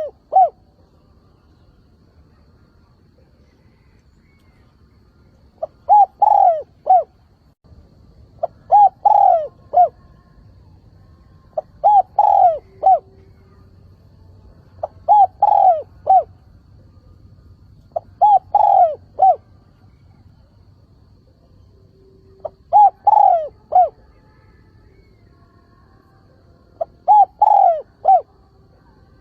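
Spotted dove giving its calling coo: a short phrase of three or four falling notes, repeated seven times at intervals of about three seconds.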